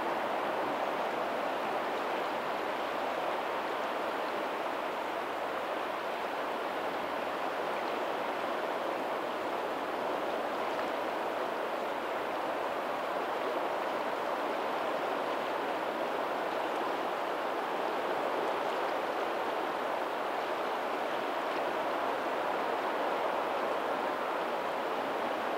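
Steady rush of a lagoon's tidal outflow running into the sea over a pebbly shore, with faint ocean surf behind it.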